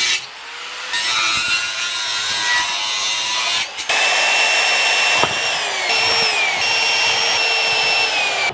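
Electric power saw cutting timber in two passes with a short break between them; the motor's whine drops in pitch several times as the blade takes load in the wood.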